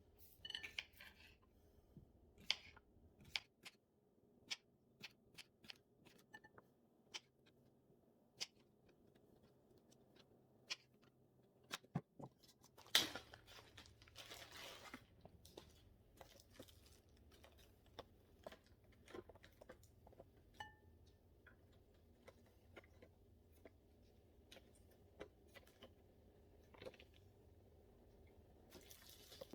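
Quiet salad preparation: scattered light clicks and taps, with a couple of seconds of rustling and tearing about halfway through, as garden lettuce and vegetables are handled.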